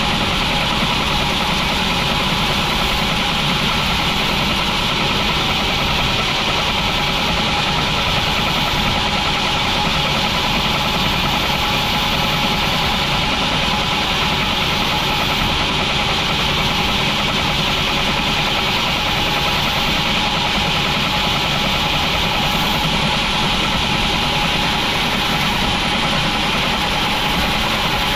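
Sawmill machinery running with a steady, engine-like drone that holds one level throughout.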